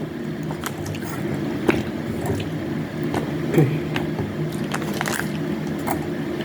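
Wet, squishy mouth sounds of chewing juicy honey orange segments, with many small scattered clicks.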